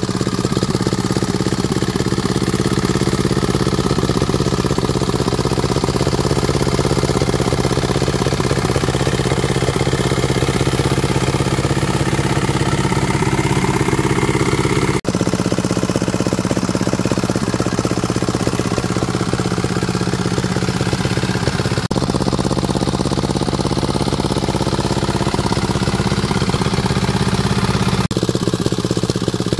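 Diesel engine running steadily at idle, with a rapid even firing beat. The sound cuts briefly about halfway through.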